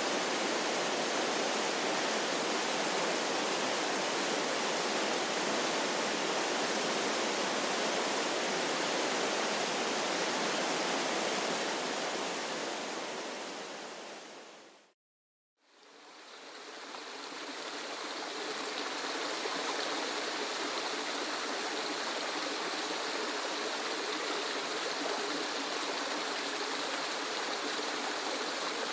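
Steady rushing of a waterfall, fading out about halfway to a moment of silence, then a second waterfall recording fades in, a little brighter and hissier than the first.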